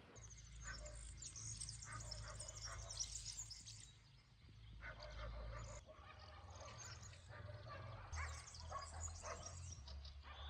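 Small songbirds chirping and twittering in two spells, one at the start and one again past the middle, over a low steady rumble.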